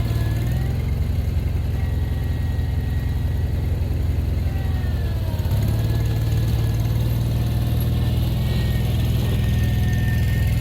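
Gasoline engine of a snow-plowing vehicle running steadily, its speed sagging and picking up again once near the start and once around five seconds in.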